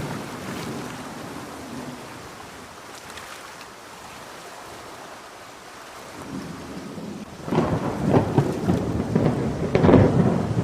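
Steady heavy rain, with thunder rolling in about two-thirds of the way through, crackling and growing loudest near the end.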